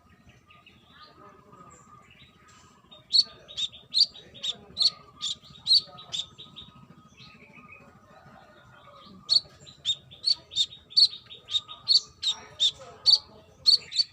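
Brown-throated sunbird calling: runs of sharp, evenly repeated chirps, about two a second. A short run comes around three seconds in and a longer one starts about nine seconds in.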